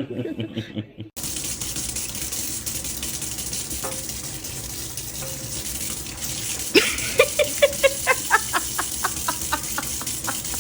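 Steady rushing noise like running water, joined after about seven seconds by a quick run of short, high-pitched calls, about four a second.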